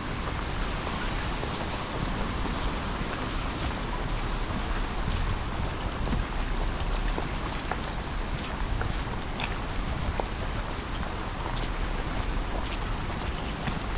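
Heavy rain falling steadily on wet paving and puddles, with scattered sharp ticks of single drops.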